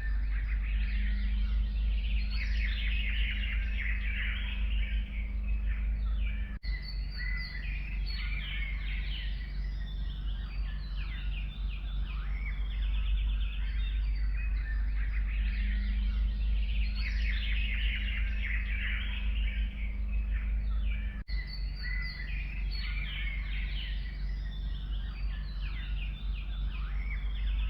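Chorus of forest songbirds chirping and trilling continuously, several birds overlapping, over a steady low rumble. Two very brief dropouts break it.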